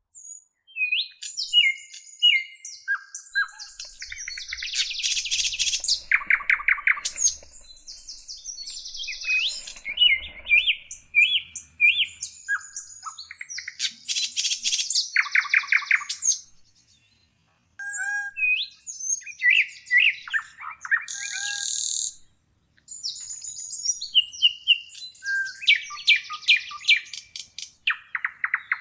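Small songbirds singing: short high whistled notes and slurred phrases, broken up by several fast trills, with a brief pause about two-thirds of the way through.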